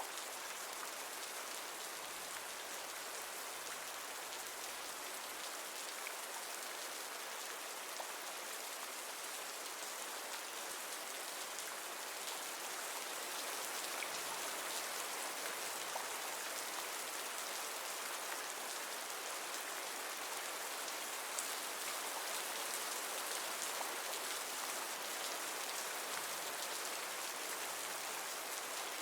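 Steady rain falling: an even hiss with a few distinct drops ticking now and then.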